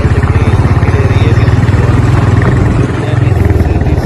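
Royal Enfield Bullet's single-cylinder engine running on the move, a rapid even train of firing pulses; it eases off briefly about three seconds in.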